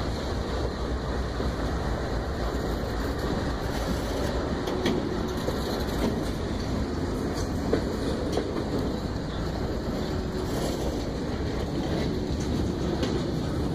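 Freight train passing close by: diesel locomotives rolling past, then freight cars, with the wheels clicking over the rail joints.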